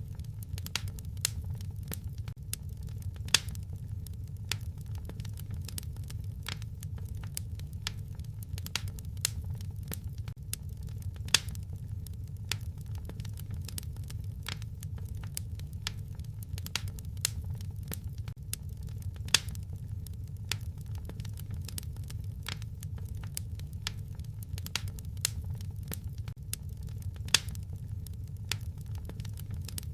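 Wood fire crackling in a fireplace: a steady low rumble of burning with irregular sharp crackles and snaps, a few louder pops standing out.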